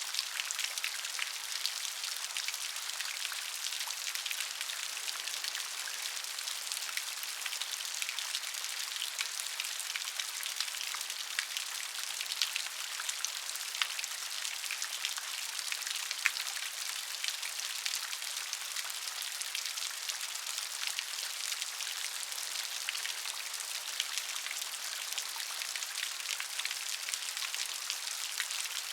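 Steady rain, a dense hiss of many small raindrops pattering on a surface, with the odd louder drop standing out.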